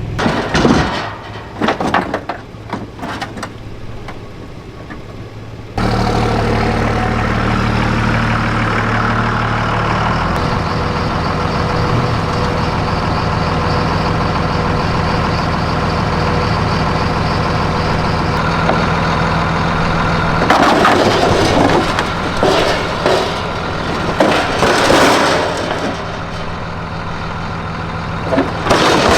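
A truck engine idling steadily, cutting in suddenly about six seconds in after a few scattered knocks. About two-thirds of the way through the engine sound gives way to a run of irregular clattering knocks and bangs.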